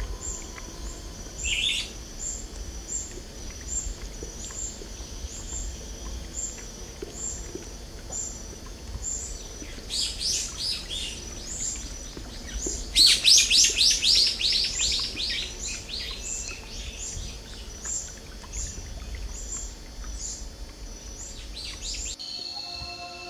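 Songbird singing: a high chirp repeated steadily, a little under twice a second, broken by two bursts of quick falling trilled notes about ten and thirteen seconds in, the second burst the loudest. It cuts off abruptly near the end and gives way to music.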